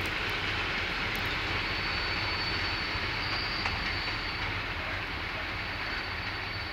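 A train running on, heard as a steady rumble of rolling stock with a thin high steady tone over it from about a second and a half in.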